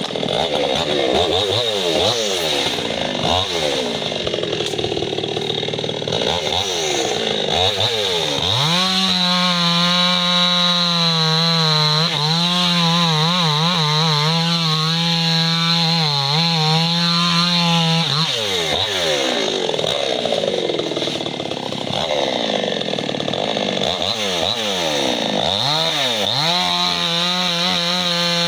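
Chainsaw starting up and revving up and down, then held at full throttle for about ten seconds with a slightly wavering pitch as it cuts into a tree trunk. It drops back to revving in and out, then runs at full throttle again near the end.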